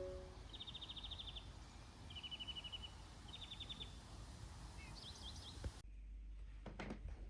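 Faint outdoor garden ambience with a small songbird singing short, rapid trills, four quick phrases over a few seconds, then a few higher chirps. About six seconds in, the outdoor sound cuts off abruptly to quieter room tone with a couple of soft knocks.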